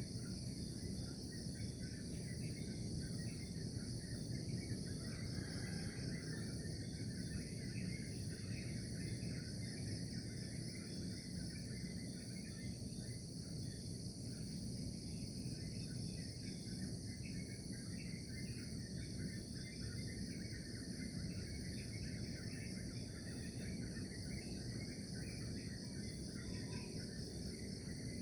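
A steady, high-pitched trilling insect chorus, with scattered short bird chirps over a low, even background rumble.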